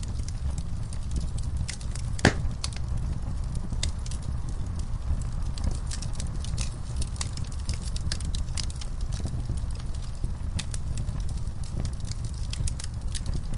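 Wood fire in a camp fire pit crackling, with logs and coals giving off irregular sharp pops and one louder pop a little over two seconds in, over a steady low rumble.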